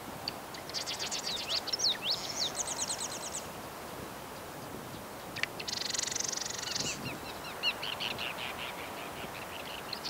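Bird song: phrases of quick high chirps and sweeps, each ending in a rapid dry trill, with a buzzy rattle and a run of chirps in the second half.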